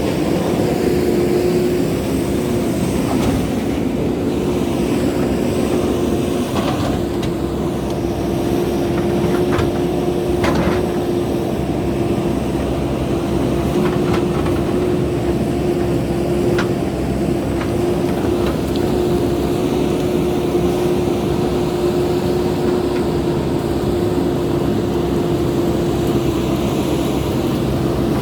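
JCB backhoe loader's diesel engine running steadily under work, with a few short sharp knocks scattered through.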